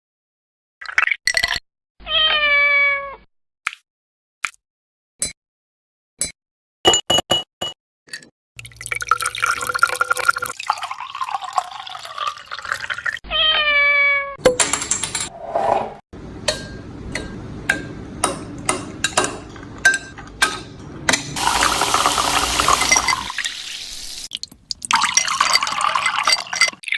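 Two short cat meows, about 2 s in and again about 13 s in, amid kitchen sounds: running water, sharp clicks and clatter of utensils.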